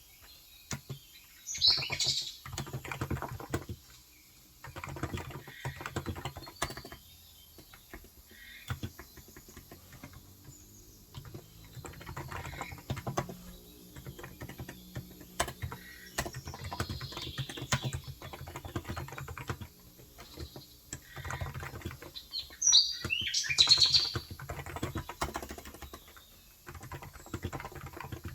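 Typing on a Cox Endeavor electrostatic capacitive (contactless) tenkeyless keyboard with 35 g switches: quick runs of soft key clicks broken by short pauses. Birds chirp over it, loudest about two seconds in and again near the end.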